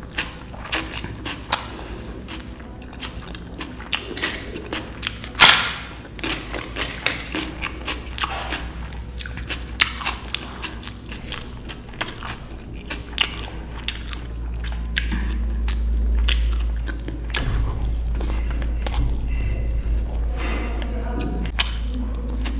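Close-miked eating sounds of dal and rice being chewed: many small wet mouth clicks and smacks, with one loud, sharp sound about five seconds in. A low rumble grows louder in the second half.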